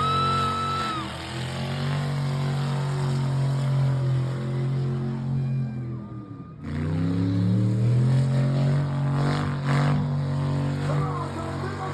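Car engine held at high revs in a steady drone, dropping off about six seconds in, then revving back up and holding again, as in a burnout run. A high squeal trails off in the first second.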